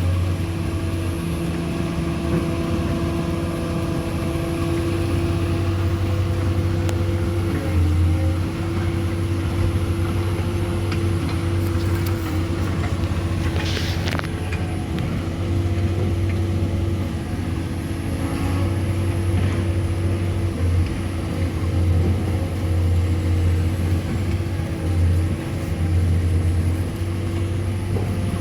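An engine running steadily at a constant speed, with one brief sharp noise about halfway through.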